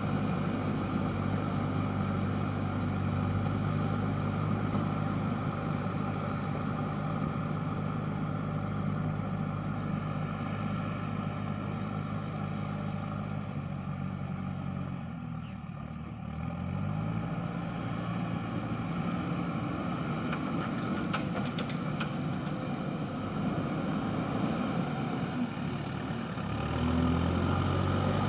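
JCB backhoe loader's diesel engine running steadily as it works, loading mud into a dump truck. About halfway through the engine speed drops and then climbs back, and it revs up again near the end.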